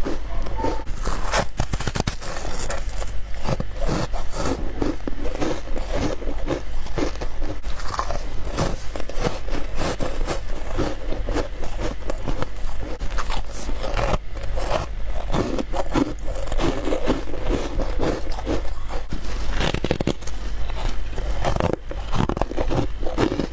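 Close-up crunching of freezer frost and ice being bitten and chewed: a dense, irregular run of crisp crunches and crackles.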